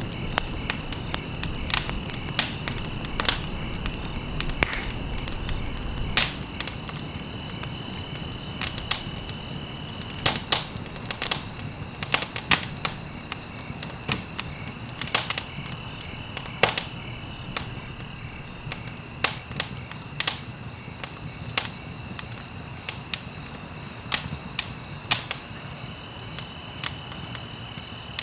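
Wood fire in a fireplace crackling, with frequent irregular sharp pops and snaps over a low rumble of burning. A steady high-pitched tone runs underneath.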